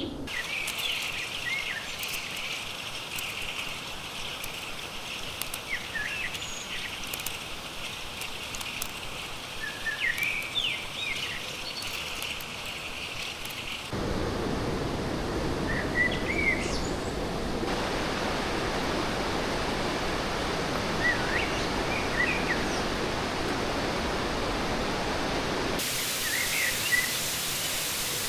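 Steady rush of a fast-flowing stream, with small birds chirping now and then. The rush becomes louder and fuller about halfway through and shifts again near the end.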